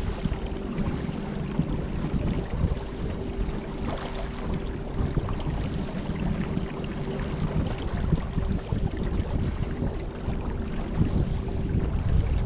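Small boat under way on two electric trolling motors: a steady motor whine over wind buffeting the microphone and the rush of water.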